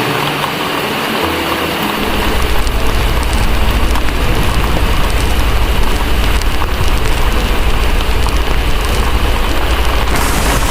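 Heavy rain falling steadily, mixed with the crackle of a fireplace. A deep low rumble comes in about two seconds in and holds.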